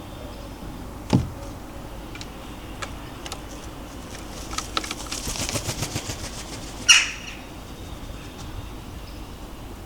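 Birds moving about a garden bird feeder: a sharp knock about a second in, a run of rapid ticks partway through, and a loud sharp clack near the end.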